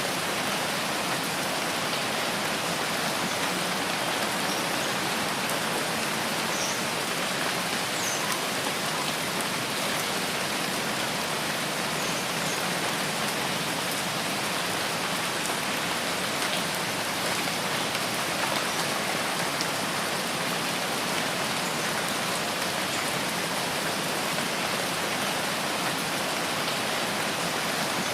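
Rain falling steadily in a forest, an even, unbroken hiss with no rises or lulls.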